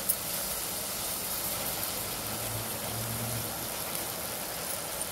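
Steady sizzle of onion, sweet corn and spices frying in oil at the bottom of a pressure cooker, with the rice resting on top.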